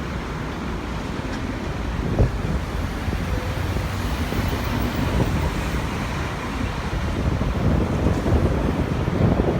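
Wind buffeting the microphone over a steady low rumble, with a single sharp bump about two seconds in.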